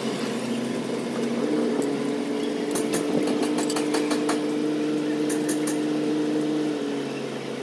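An engine running steadily, its pitch stepping up about a second and a half in and dropping back about seven seconds in, with a few light clicks in the middle.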